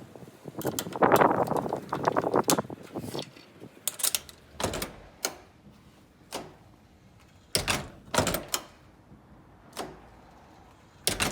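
Front-door latch mechanism clicking and clacking as it is worked, the latch freshly coated with pencil graphite. A stretch of handling noise is followed by a string of sharp, separate clicks about a second apart.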